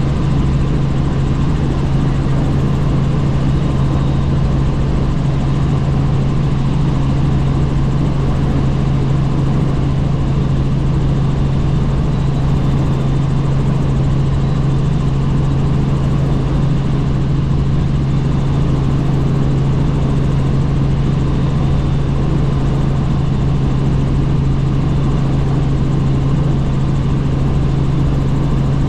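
Helicopter in flight: a steady rotor and engine drone with a strong low hum, unchanging throughout.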